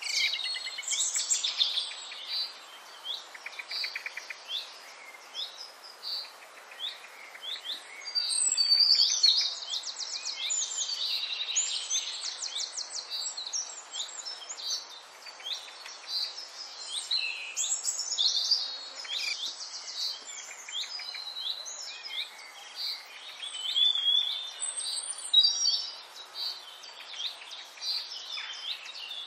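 Many songbirds chirping and singing in a dense, overlapping chorus, with rapid trills about nine and twelve seconds in.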